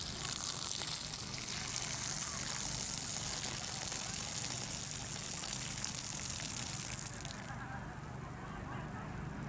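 A steady high hiss over a low steady hum; the hiss fades out about seven seconds in.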